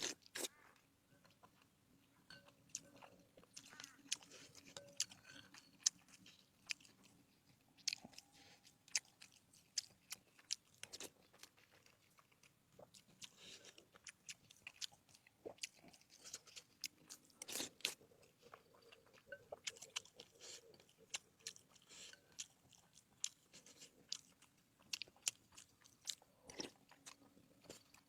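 Close-miked eating: someone biting and chewing crunchy food, with many sharp, irregular crunches and mouth clicks.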